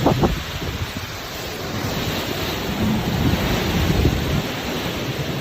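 Strong typhoon wind rushing and buffeting the microphone in gusts, a continuous rushing noise with heavy low rumbles that swell and ease.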